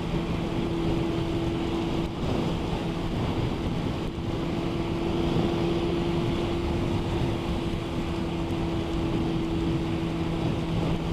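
Motorcycle engine holding a steady drone at motorway cruising speed, with a rush of wind noise on the rider's microphone.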